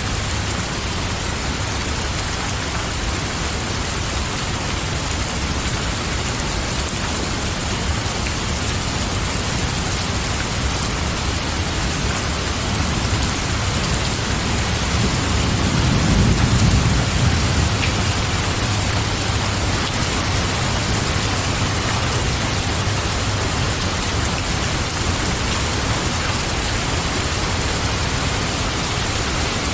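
Steady rain falling, an even hiss of countless drops, with a low rumble of thunder swelling and fading about halfway through.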